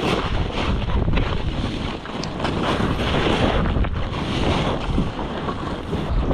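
Wind rushing over the microphone and skis hissing through deep powder snow during a fast downhill run, heard through a camera held in the skier's mouth.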